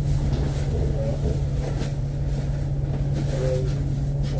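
Cabin noise of an Alexander Dennis Enviro500 MMC double-decker bus under way: a steady low engine and road drone with a constant hum, and faint rattles in the cabin.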